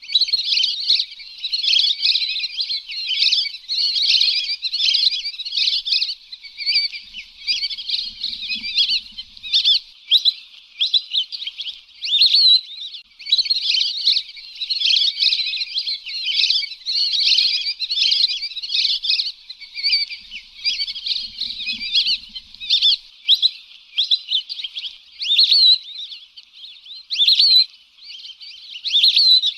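A flock of lesser whistling ducks calling: many high, quick whistled calls overlapping one another without a break.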